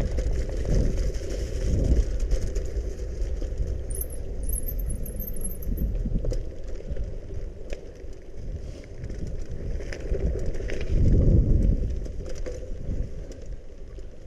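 Mountain bike being ridden along a wet, muddy trail: tyre noise and rattling from the bike over heavy wind rumble on the microphone, swelling and easing with speed. A brief high twittering comes about four seconds in.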